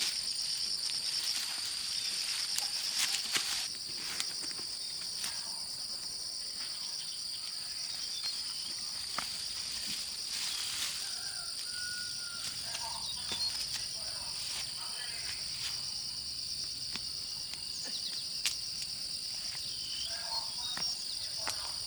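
Insects droning in a steady, high-pitched chorus, with scattered clicks and knocks.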